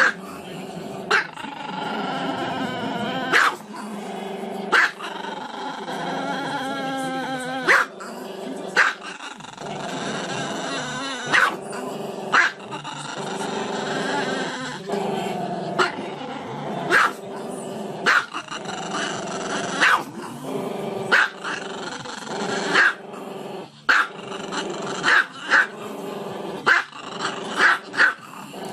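Small black-and-tan Chihuahua howling with its head raised: long, wavering howls broken every second or two by sharp barks, which come quicker near the end.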